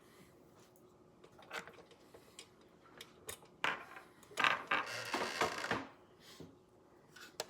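Small screws and a screwdriver being handled on an engine: a few sharp metal clicks, then a longer stretch of scraping and rattling about halfway through.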